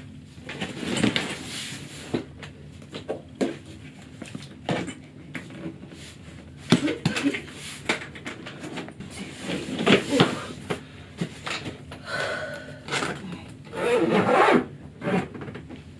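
Irregular knocks, taps and rubbing of objects being handled in a small room.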